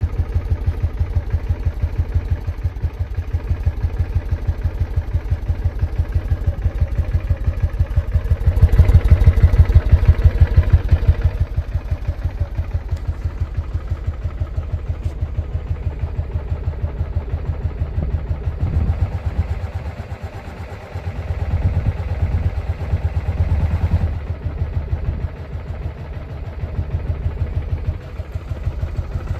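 Suzuki VX800's V-twin engine idling with an even pulsing beat. It is revved up about a third of the way through and blipped lightly again later on.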